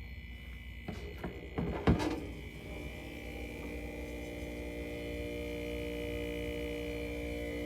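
Mini fridge running with a steady electrical hum, with a few clicks and a sharp knock about two seconds in. After that, steadier humming tones build slightly.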